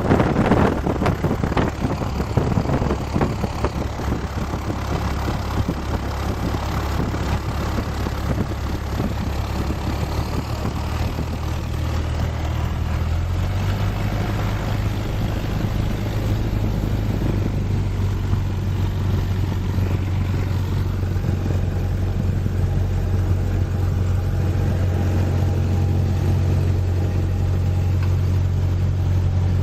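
Cessna 172S's four-cylinder Lycoming piston engine running steadily, with a rushing noise that dies away over the first few seconds. The engine note shifts about 13 seconds in and then holds steady.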